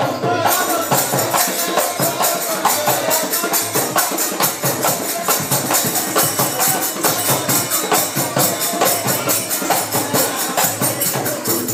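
Live tirikutu naach dance music: a fast, steady run of percussion strokes with metallic jingling, over a pitched melody line.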